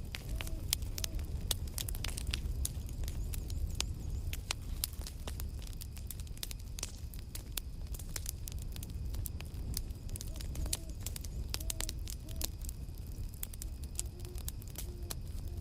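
Campfire crackling, with irregular sharp pops throughout over a steady low rumble. A few short, faint whistling tones come through, near the start and again past the middle.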